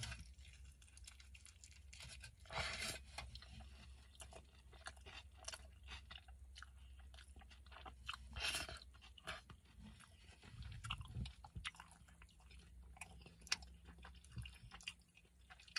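Close-up chewing of a steak burrito: wet mouth clicks and smacks, with two louder bursts about three and eight and a half seconds in, over a faint steady low hum.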